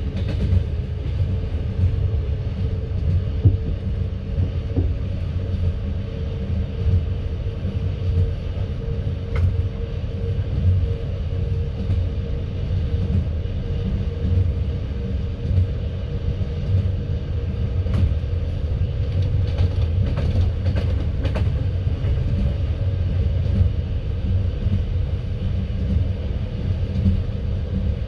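Passenger train carriage running along the rails, heard from inside: a steady low rumble of the wheels and car body, with a few sharp clicks about two-thirds of the way through.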